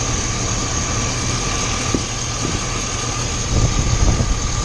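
Car engine idling steadily while its ignition coils and plug wires are wet with water, a test for the spark arcing that causes a random misfire. A steady high whine sits over the idle, and heavier low bumps come in past the middle.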